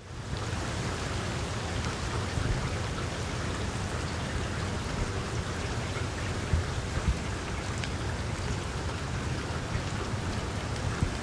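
Steady rain falling on leafy trees, an even hiss with a few sharper drop hits about six and seven seconds in.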